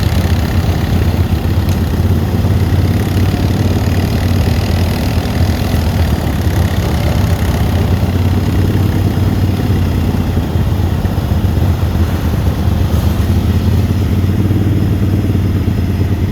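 Engine of a 1986 Honda HTR 3009 riding lawn mower running steadily, with a low, even hum.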